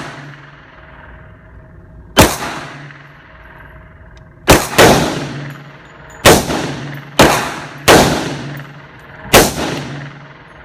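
Seven gunshots fired at an uneven, deliberate pace, two of them close together about halfway through, each followed by a ringing echo tail.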